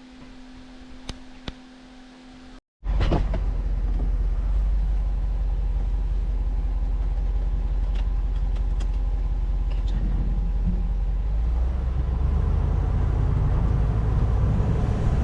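Pickup truck driving on the road: a steady low rumble of engine and road noise that starts abruptly about three seconds in. Before it there is quiet with a couple of faint clicks.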